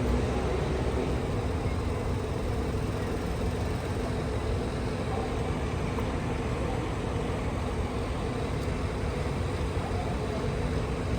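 A vehicle engine running steadily at a constant speed.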